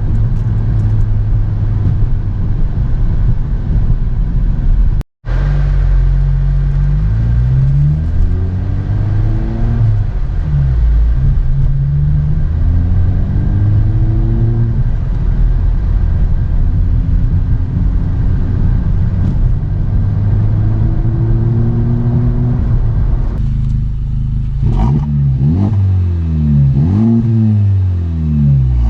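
Exhaust of a muffler-deleted 2021 Honda Civic Type R's 2.0-litre turbocharged four-cylinder. It first runs at a steady cruise in fifth gear, heard inside the cabin with the windows up. After a sudden cut about five seconds in, it accelerates several times with rising pitch, then holds steady. Near the end come a string of quick revs rising and falling.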